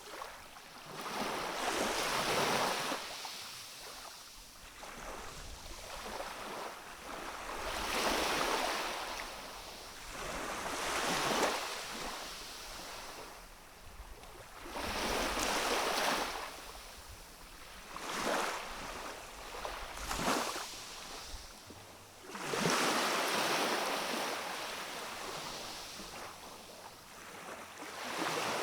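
Small waves from a calm sea washing onto a rocky shore, each swell of water noise rising and falling away every two to five seconds.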